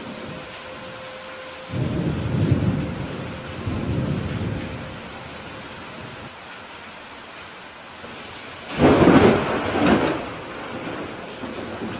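Steady rain with thunder: rumbles about two seconds in and again around four seconds, then a louder, sharper thunderclap about nine seconds in that rolls off over a second or so.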